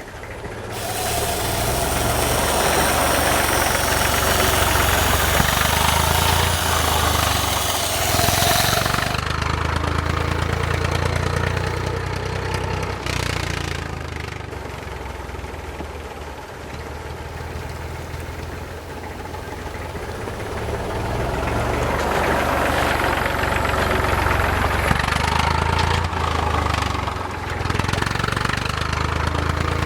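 HMT 5911 tractor's diesel engine running while pulling a trolley, a steady low drone that swells louder for two long stretches, near the start and again in the last third, and eases off in between.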